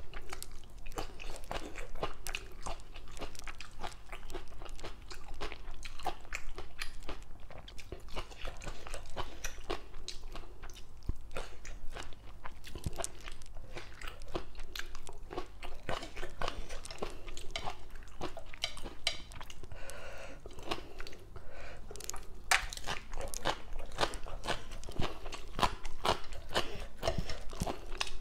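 A person chewing and crunching papaya salad and raw vegetables: many short crisp crunches one after another, densest about three quarters of the way through.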